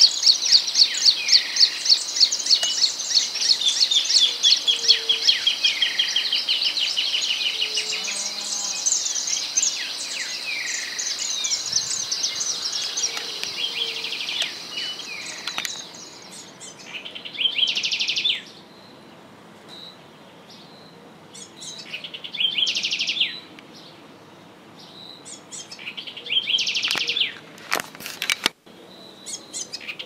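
Birds singing: a dense run of rapid, repeated high chirps for about the first fifteen seconds, then short high trills coming every four or five seconds.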